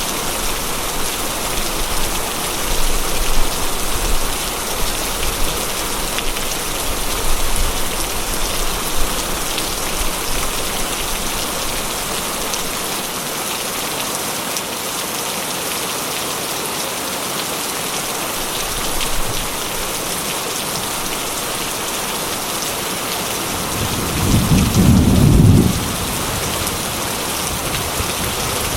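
Heavy rain drumming steadily on a corrugated metal roof. Near the end comes a short, low rumble of thunder lasting about two seconds.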